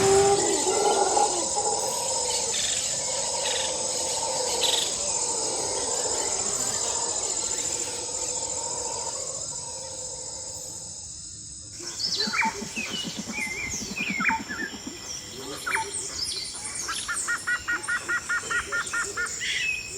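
Steady high-pitched insect drone, then, after a sudden break about twelve seconds in, birds chirping and calling, with a quick run of repeated notes near the end.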